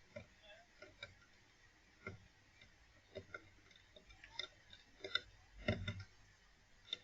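Scattered light clicks and taps at uneven intervals, with a heavier knock near the end.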